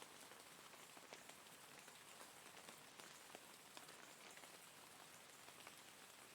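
Steady rain falling on a surface, quiet, with many individual drops ticking through a soft even hiss.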